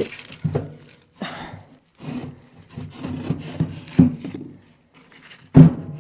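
Loose refractory lining panels from a fireplace firebox scraping and knocking against each other and the firebox as they are pulled out and set down. The sound comes as a string of separate scrapes and knocks with short pauses between them.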